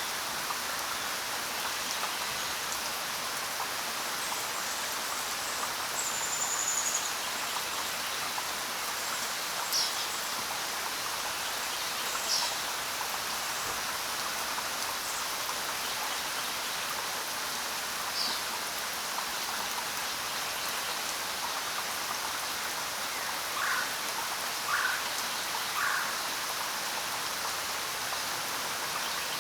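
Steady rain falling, with occasional short bird calls over it: a high whistle about six seconds in, a few brief high chirps scattered through the middle, and three lower chirps near the end.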